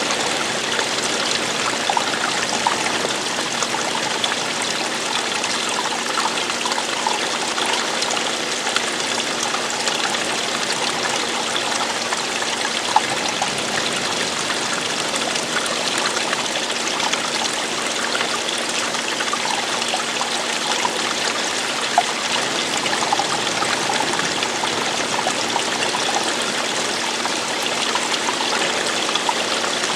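Running water falling and flowing, a steady rush with fine trickling and splashing throughout, and a couple of brief louder splashes.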